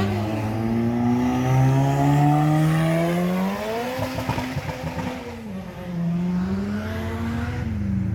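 Car engine revving loudly, its pitch climbing for the first few seconds, falling off about halfway through, then rising again and dropping near the end.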